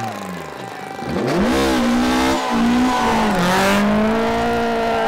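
Rally car engine accelerating hard. The pitch falls at the start, then the revs climb sharply about a second in, break briefly near two and a half seconds with a gear change, and then hold high.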